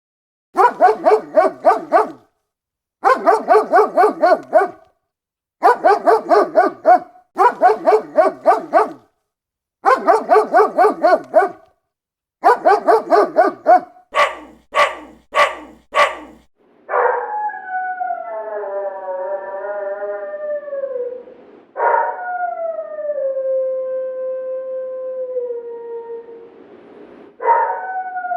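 Dog barking in quick volleys of several barks each, six volleys about two seconds apart, then four single sharp barks, then three long howls that slide down in pitch.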